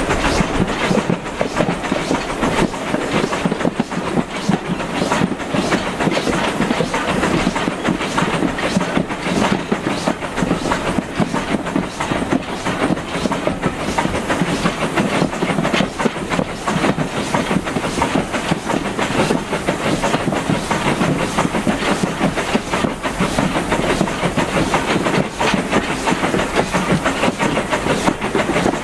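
Carriage of a steam-hauled heritage train running along the line: a steady rumble of wheels on rail with frequent clicks and rattles.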